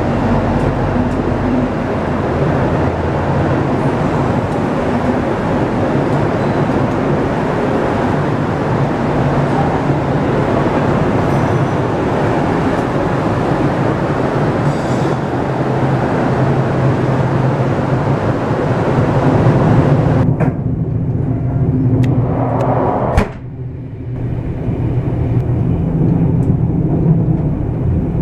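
Israel Railways passenger train moving past close by at the station platform: a steady rumble of wheels and running gear. About twenty seconds in, the sound turns duller, with a sharp click a few seconds later, then the steady running noise of a train in motion.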